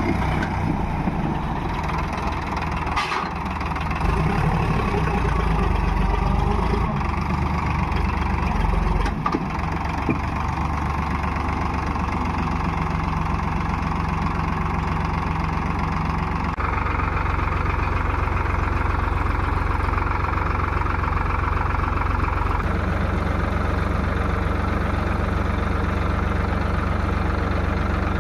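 Heavy diesel engine running steadily near idle, its note shifting slightly a few times.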